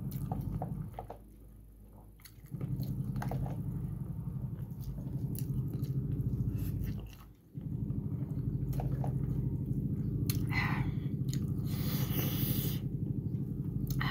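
Close-miked chewing of boiled pork and rice, wet and steady, with short pauses between mouthfuls and louder wet mouth noises around ten and twelve seconds in.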